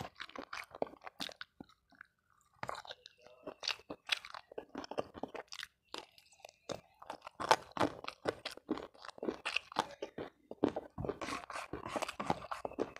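Close-miked chewing and crunching of food by a person eating with his fingers: irregular wet crackles and crunches, pausing briefly about two seconds in, then coming thickly through the second half.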